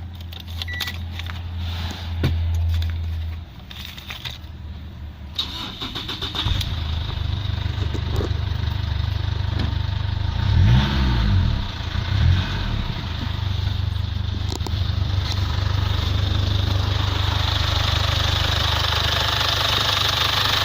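Mazda BT50's 3.0-litre WE four-cylinder turbo diesel being started: it catches about six seconds in, is revved briefly twice, then settles into a steady idle.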